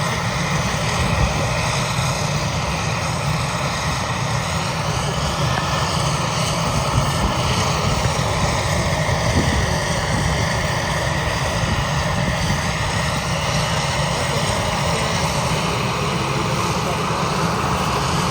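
Agusta-Westland EH-101 Merlin helicopter running with its rotors turning: the steady whine of its three turbine engines over a low rotor throb.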